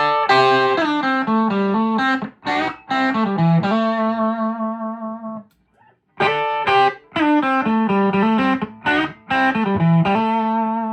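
Electric guitar, a Stratocaster on its Hot Rails pickup, played on the clean channel of a Fender 4x10 combo amp at stage volume with no effects. A short phrase of ringing notes and chords is played, then the same phrase again after a brief break halfway through.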